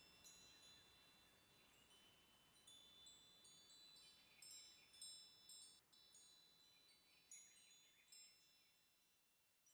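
Wind chimes ringing softly, new high bell-like tones struck every second or so and overlapping as they ring on. The whole sound fades steadily, dying away near the end.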